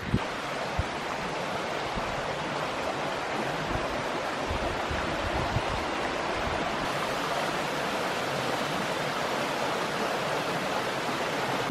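Stream water running over rocks, a steady even rush.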